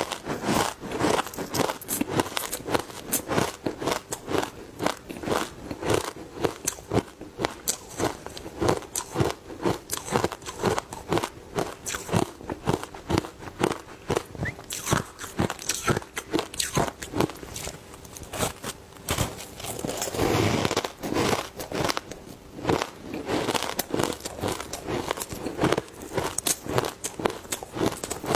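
Ice coated in heavy matcha powder being bitten and chewed close to the microphone: a rapid run of crunches and cracks, several a second, with a denser stretch of crunching about two-thirds of the way through.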